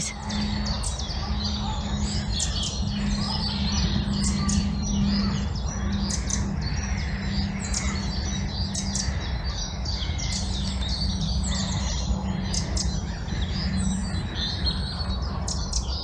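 Woodland birdsong: many small birds chirping and calling at once, over a steady low hum.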